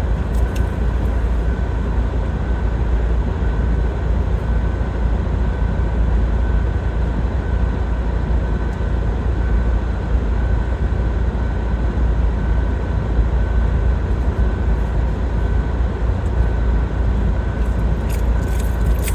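Steady low rumble of a car's engine and tyres heard from inside the cabin while driving, with a faint steady whine on top.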